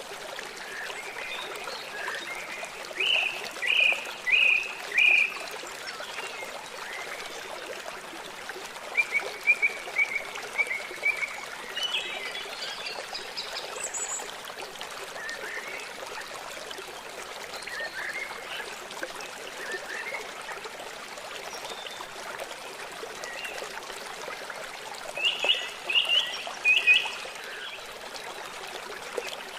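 River water flowing steadily. Over it, birds call in short runs of a few quick chirps, heard three times: early, about ten seconds in, and near the end.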